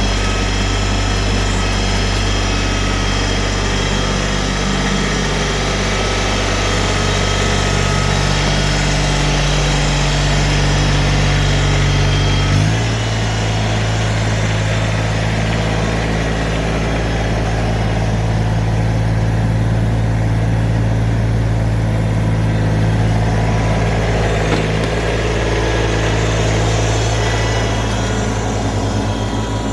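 New Holland Workmaster 25S compact tractor's three-cylinder diesel engine idling steadily while it warms up after a start. Its speed steps slightly about thirteen seconds in.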